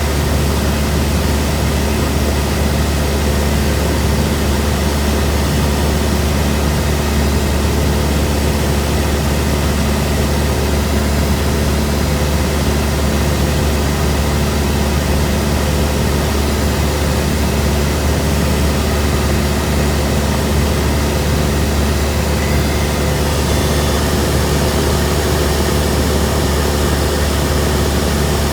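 Cessna 172M's four-cylinder Lycoming piston engine and propeller droning steadily in flight, with a deep constant hum and a broad rush of air noise over it.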